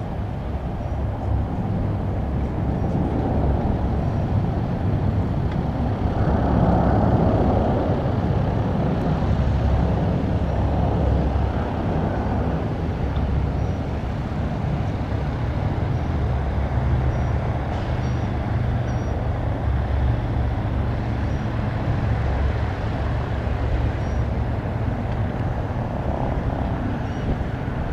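DC-10 air tanker's three jet engines during landing, a continuous low rumble that swells for a few seconds about seven seconds in and then holds steady.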